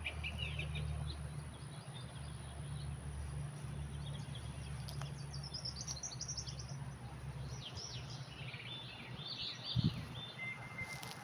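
Wild birds chirping and calling with many short, quick notes over a low rumble, with one soft thump near the end.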